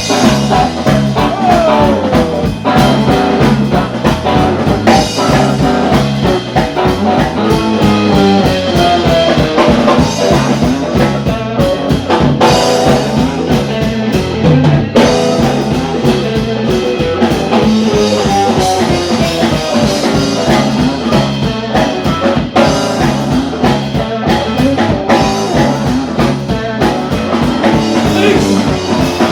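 Blues-rock band playing with guitar and drum kit over a steady beat, with notes that bend in pitch.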